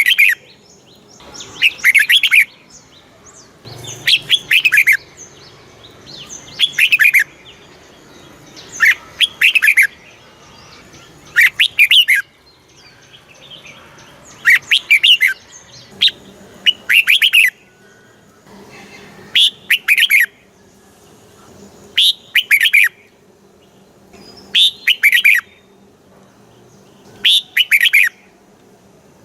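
Red-whiskered bulbul singing, about eleven short phrases one every two to three seconds, each a quick run of falling whistled notes.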